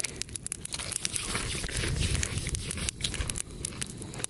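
Bonfire crackling, with many irregular sharp pops.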